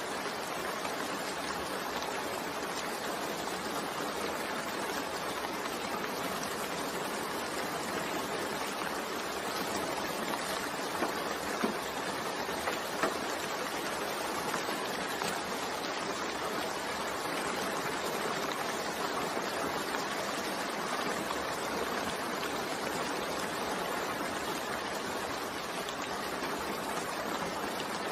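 Steady rain falling, an even hiss with a few faint drop ticks and small spatters about 11 to 13 seconds in.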